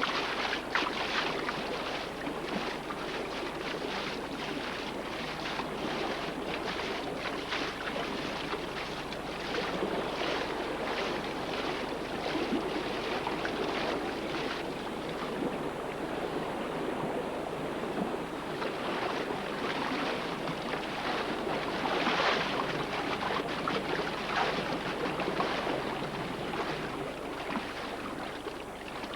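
Continuous water splashing and churning from a herd of wildebeest swimming across a lake, with many irregular splashes.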